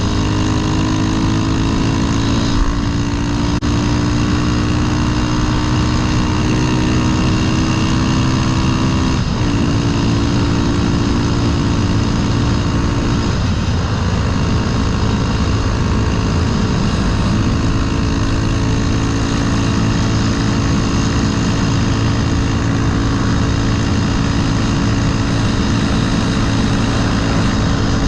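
Honda Grom with a swapped-in CBR300R 286 cc single-cylinder engine pulling under load, its revs climbing slowly. The note breaks briefly for a gear change about 9 seconds in and again about 13 seconds in, then runs at a nearly steady speed.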